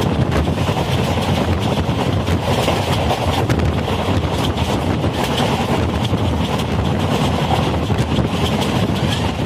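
Express train coach running at speed, heard from its open door: a steady rush of wheel and rail noise with frequent sharp clicks, and wind buffeting the microphone.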